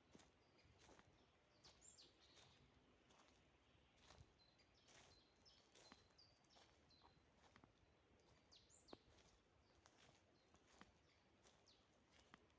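Faint birdsong: short high chirps and a few quick downward-sweeping notes, over a faint hiss with scattered soft clicks.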